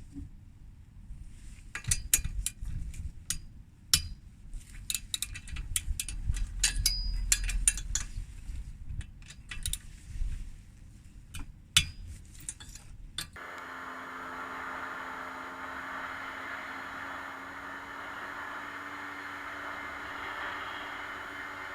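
Scattered light metallic clinks and taps, then a sudden switch about 13 seconds in to the steady running of a Suzuki Colleda's two-stroke engine under way.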